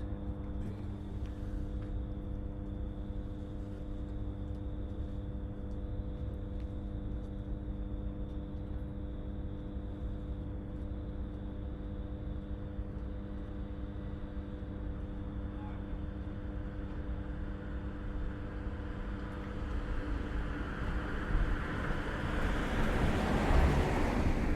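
A steady low machine hum over a rumble. About twenty seconds in, a passing vehicle's noise swells up and is loudest near the end.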